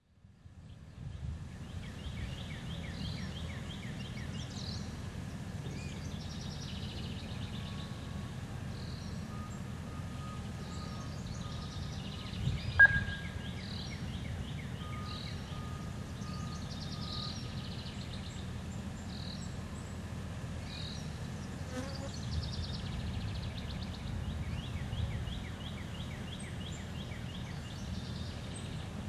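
Outdoor ambience: birds chirping and trilling again and again over a steady low rumble, with one sharp click about halfway through.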